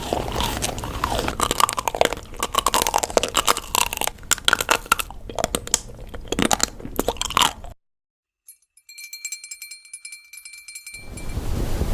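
Dense crunching and crackling for about eight seconds, cutting off suddenly; after a short silence, faint high-pitched tones with fast ticking come in, then give way to a rushing noise near the end.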